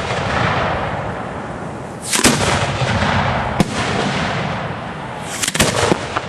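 Aerial fireworks shells going off in a continuous barrage. A quick cluster of sharp bangs comes about two seconds in, a single bang at about three and a half seconds, and another quick cluster near the end, with constant noise in between.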